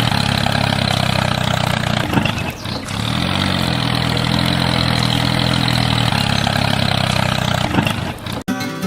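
Engine running at a steady idle, with a brief dip and wobble in pitch about two and a half seconds in. It cuts off suddenly near the end.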